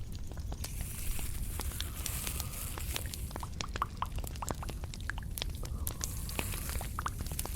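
Close-miked ASMR trigger sounds: many irregular soft clicks and small wet pops, some with a brief pitched drip-like tone, over a low steady hum.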